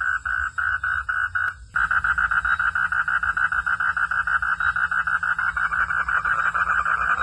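Frog calling in a rapid, even train of pulses, about four a second. About a second and a half in it breaks off with a click, then resumes faster, about eight pulses a second.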